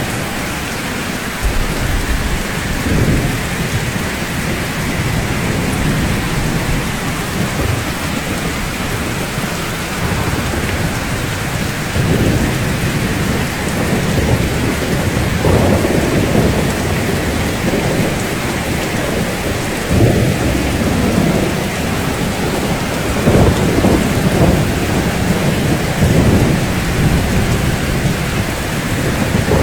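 Steady rain falling on rooftops in an even hiss, with low rumbles that swell and fade every few seconds.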